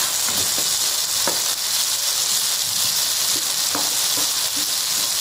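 Onion-tomato masala sizzling steadily in oil in a frying pan as shredded boiled tuna is added, with a few small crackles.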